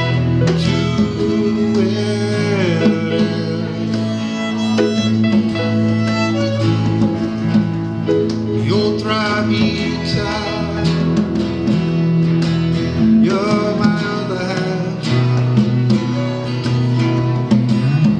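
Live band playing an instrumental break, with guitar and a lead line that slides between notes.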